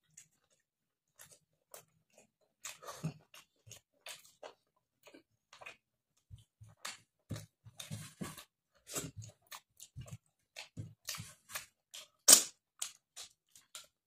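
Mouth sounds of chewing rice and pork curry eaten by hand: irregular wet chewing clicks and lip smacks, with one louder smack near the end.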